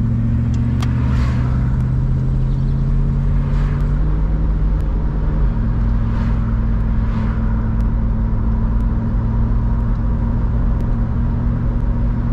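Triumph Stag's 3.0-litre V8 engine heard from inside the cabin as the car drives away along a lane, its note holding steady and changing step about four seconds in and again a little later. Several oncoming cars swish past, one about six seconds in.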